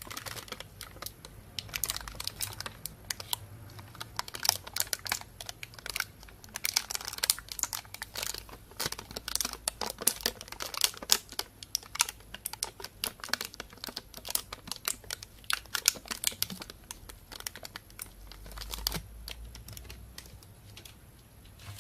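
Thin plastic shopping bag crinkling and crackling in dense, sharp crackles, with fewer crackles near the end.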